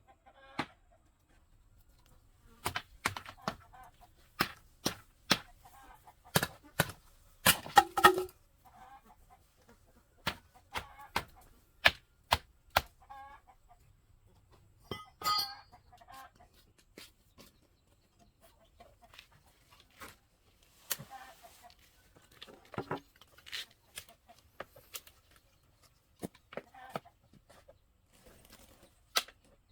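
Irregular sharp knocks and taps, a dense run of them about eight seconds in, with a chicken clucking now and then.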